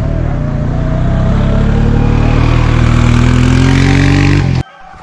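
A motor vehicle's engine running loud and accelerating, its pitch climbing steadily, easing back, then climbing again. It cuts off suddenly near the end.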